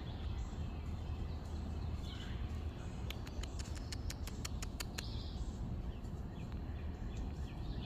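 Outdoor backyard ambience: a steady low rumble with faint scattered bird chirps. Around the middle comes a quick run of about ten sharp clicks over two seconds.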